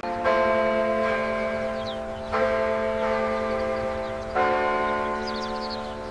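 A bell tolling: three strokes about two seconds apart, each ringing on with several overlapping tones until the next stroke.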